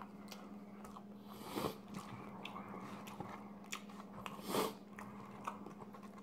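Close-up mouth sounds of a person chewing food, with small wet clicks of the mouth and two short, louder rushes of breath-like noise, about a second and a half in and again around four and a half seconds. A faint steady hum lies under it.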